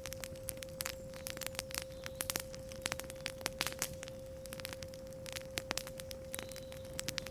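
Campfire crackling, with irregular sharp pops, over a steady 528 Hz pure tone.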